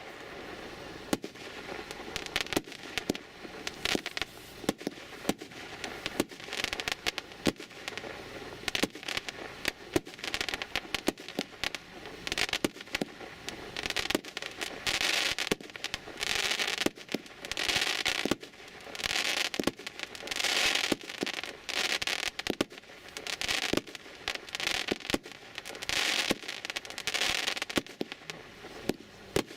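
A 160-shot, 30 mm firework cake (V.I.P. SU 20-160) firing a steady run of sharp shots. From about twelve seconds in, the shots are joined by crackling bursts lasting about a second each, coming every couple of seconds.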